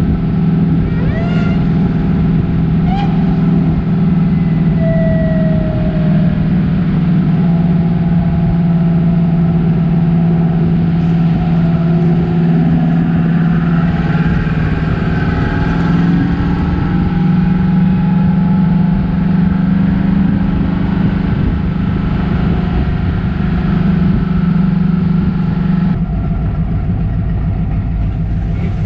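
A car engine running loud and close at a steady speed, holding one even pitch throughout. A few short chirps come in the first few seconds.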